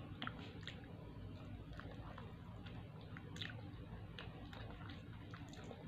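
Faint chewing of fried chicken, with scattered soft mouth clicks over a steady low hum.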